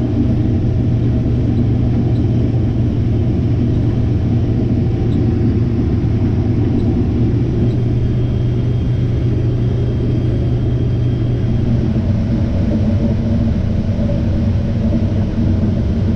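Diesel engine of harvest machinery running steadily under load, a low even drone.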